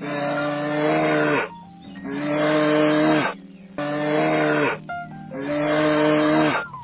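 Livestock calling repeatedly: four drawn-out, pitched calls in quick succession, each about a second long and dropping in pitch at the end.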